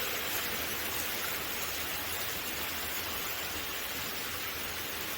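Steady rain falling, a continuous even hiss of rain on the ground and nearby surfaces.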